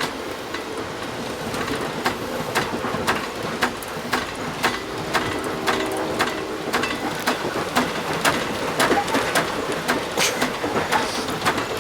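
Passenger train running along the track, heard from on board: a steady rumbling rush broken by sharp, irregular clacks and rattles from the wheels and car, about one or two a second, on rails the rider calls very wobbly.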